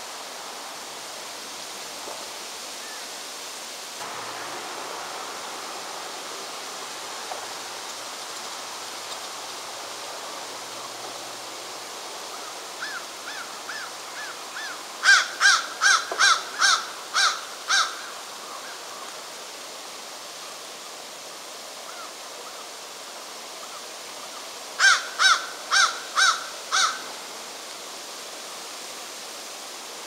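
A bird calling in two quick series of loud, harsh, evenly spaced calls, about eight in the first around the middle and six in the second later on, with a few softer calls just before the first. A steady rushing hiss lies under it all.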